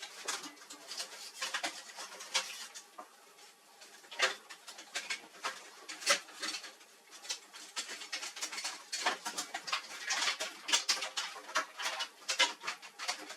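Irregular clicks, taps and knocks of parts and tools being handled, coming several a second in a busy run near the end.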